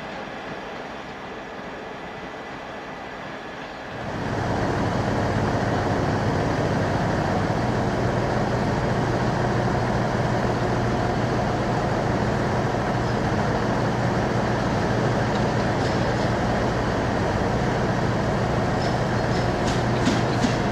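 Train shunting close by: a locomotive runs steadily with a low hum as it moves the passenger trainset, and wheel clicks over rail joints start near the end. A quieter rail ambience before it cuts in suddenly about four seconds in.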